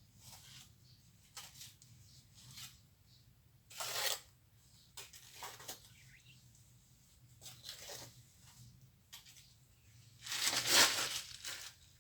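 Plastering trowel scraping and spreading mortar in irregular strokes, with a stronger stroke about four seconds in and the longest, loudest one near the end.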